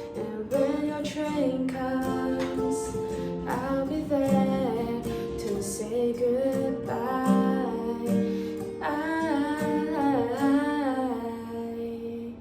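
Female voice singing a wordless melody with vibrato, over a guitar accompaniment.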